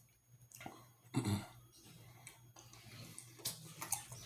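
Close-up eating sounds: chewing with scattered short mouth clicks and smacks, and a brief low 'mm'-like hum about a second in.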